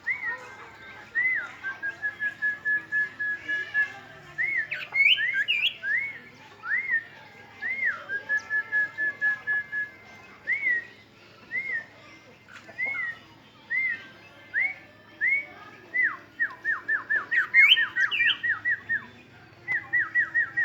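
A caged songbird singing in clear whistled notes, each rising and then falling. Twice a short rapid run breaks in, and near the end comes a quick series of falling notes.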